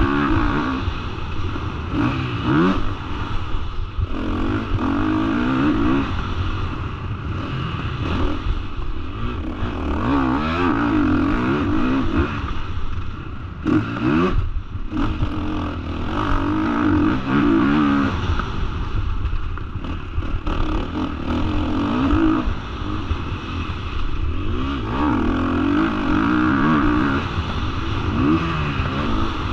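A 2005 Honda 450 four-stroke single-cylinder motocross bike riding a lap, its engine revving up and falling back over and over as the throttle opens and closes, with a brief sharp drop in revs about halfway through.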